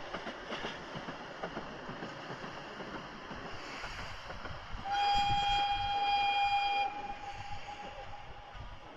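Diesel railcar running on the rails, sounding its horn once, about five seconds in: one steady note held for about two seconds, then dying away.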